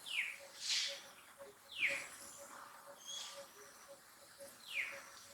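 Short high-pitched animal calls, each falling quickly in pitch, repeated about every second or so, with brief hissy bursts between them.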